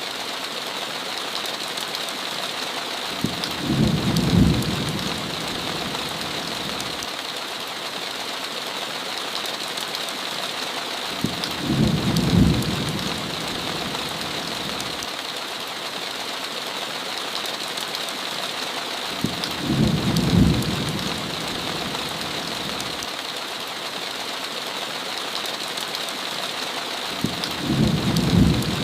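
Steady, heavy rain hiss with a short low rumble of thunder four times, evenly about eight seconds apart, each swelling to a peak over a second or so and then falling away.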